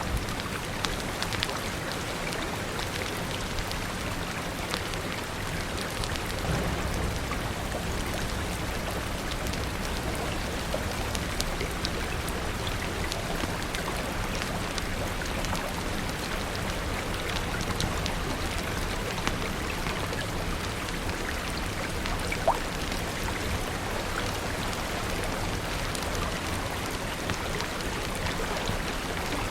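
Steady heavy rain with scattered sharp crackles from a wood fire mixed in, one louder pop about three quarters of the way through.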